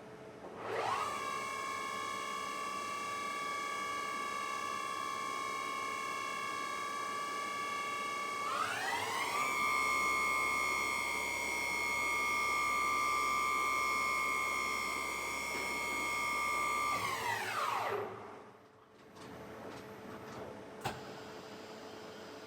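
Okuma Howa MILLAC-611VL vertical machining center's spindle spinning up with a rising whine and holding a steady speed. About eight seconds in it steps up to a higher-pitched whine, then it winds down with a falling whine and stops.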